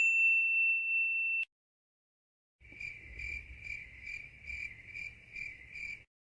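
A bright, high ringing tone, the loudest sound here, cuts off suddenly about a second and a half in. After a short silence, a crickets-chirping sound effect follows: steady chirps about two to three times a second over a faint low rumble, stopping just before the end.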